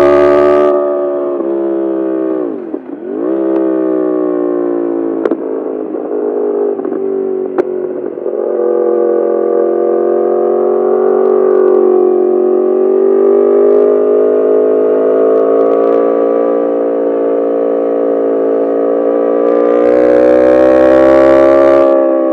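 Yamaha R1's inline-four engine through an Akrapovic full titanium exhaust, under way on the road. The revs drop sharply and climb back about three seconds in, then hold fairly steady with slow rises and falls, building again near the end.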